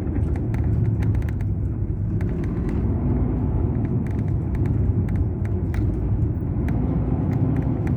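Mercedes-Benz O500 RSD BlueTec5 bus's diesel engine running steadily, a deep even rumble with frequent short rattling clicks over it.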